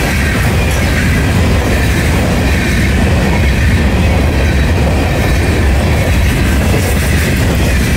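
Freight train cars rolling past, mostly covered hoppers: a steady, loud rumble of steel wheels on the rails, with a few faint clacks.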